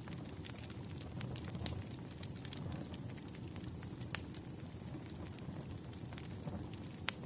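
Wood fire burning: a steady low rumble with irregular crackles and pops of burning logs, a sharper pop about four seconds in and another near the end.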